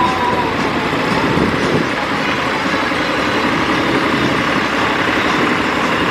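Farm tractor engine running, a loud, steady mechanical noise with no breaks.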